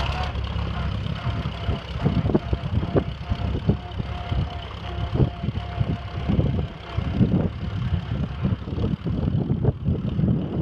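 1937 Farmall F20 tractor's four-cylinder engine running at low speed, with a low rumble and uneven, irregular exhaust pops.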